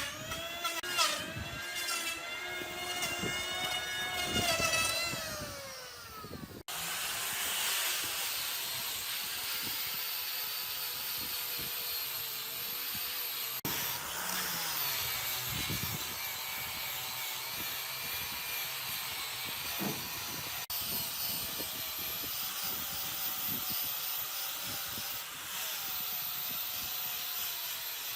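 Power tools working wood. A high motor whine slides down in pitch and stops about six seconds in, and is followed by a steady abrasive sanding or grinding noise.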